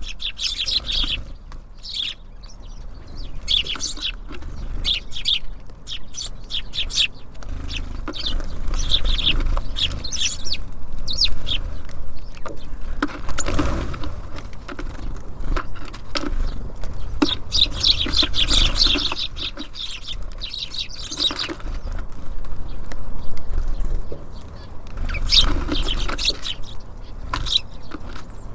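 Small songbirds chirping in quick, repeated bursts at a bird feeder, with occasional wing flutters and knocks. A steady low rumble runs underneath.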